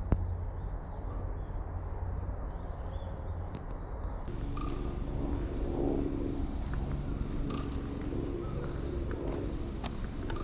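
Insects trilling: a steady high trill for about the first four seconds, then a pulsed high chirping, about five notes a second, over a steady low rumble. A single click comes right at the start.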